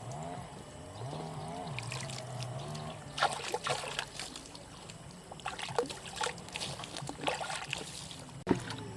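Background music with a wavering melody for the first few seconds. From about three seconds in, irregular splashing and trickling of water, with a sharp click near the end.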